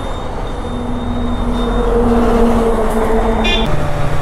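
Kawasaki Z900 motorcycle's inline-four engine running on the move, a steady drone over a low rush of wind; the engine note drops about three and a half seconds in.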